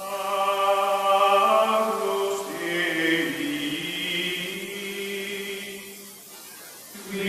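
Choir-like vocal music: voices holding long, sustained notes that shift slowly in pitch, fading a little near the end.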